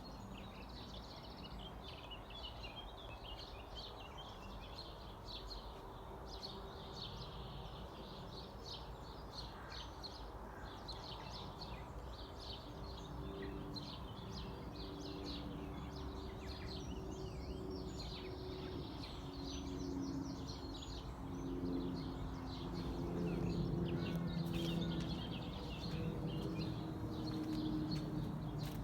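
Several songbirds singing and chirping together over a steady low background rumble. From about halfway, low droning tones come and go and the sound grows louder.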